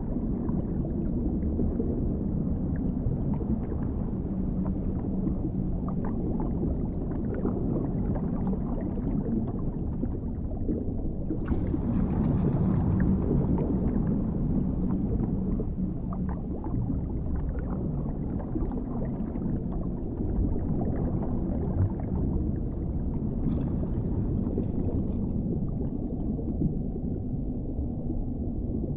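Underwater ambience: a steady, low, muffled rumble with small bubbling pops. It brightens about twelve seconds in and dulls again near the end.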